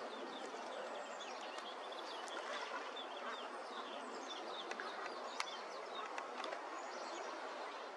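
Birds chirping: many quick, short, falling high chirps over a steady outdoor hiss, with a few sharp ticks a little past the middle.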